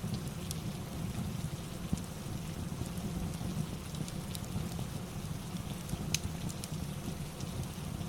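Rain and fireplace ambience: a steady low rush of rain with scattered sharp crackles and pops, one louder pop about six seconds in.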